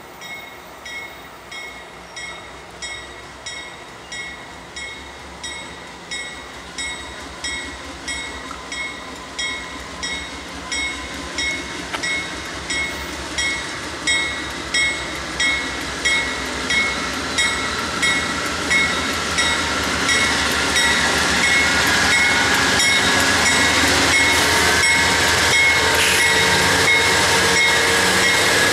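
Freight train approaching and passing, its diesel locomotives and wheels on the rails growing steadily louder into a continuous rumble from about twenty seconds in. Through most of it a grade-crossing bell rings about once a second.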